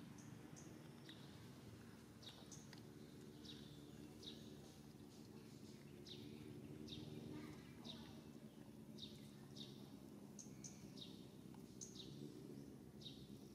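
A small bird calling faintly: short high chirps, each dropping in pitch, repeated about one or two times a second over a faint low hum.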